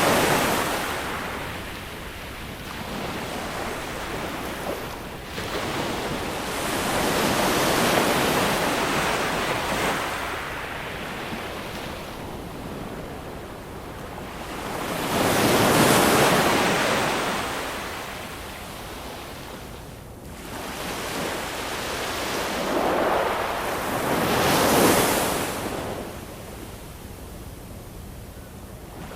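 Ocean waves breaking and washing back, each swelling and fading about every eight seconds, with a steady hiss of surf in between.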